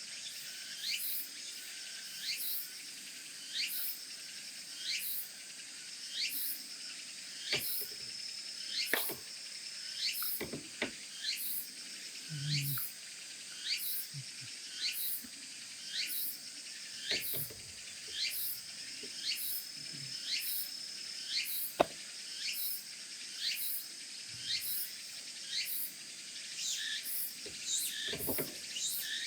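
Chorus of crickets and other insects: evenly repeated chirps a little more than once a second over a faster high pulsing and a steady high whine. A few soft knocks sound over it, one sharper knock about 22 seconds in.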